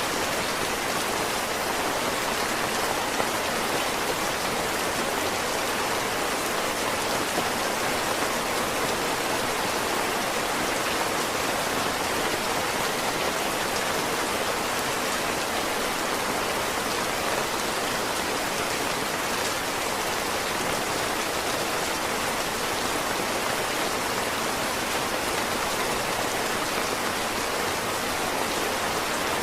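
Heavy rain falling steadily: a dense, even hiss of drops with no breaks or changes.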